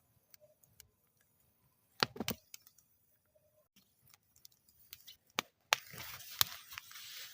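Wood fire burning in a metal fire bowl, crackling with scattered sharp pops and a quick cluster of them about two seconds in. In the last second and a half it settles into a steady hiss, with a few louder pops.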